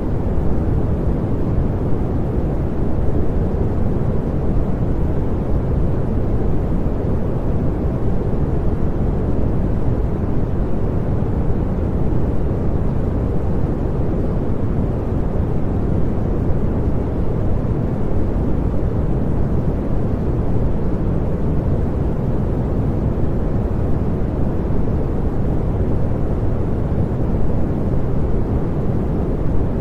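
Continuous synthetic pink noise, steady and unchanging, a deep even hiss with most of its weight in the low end.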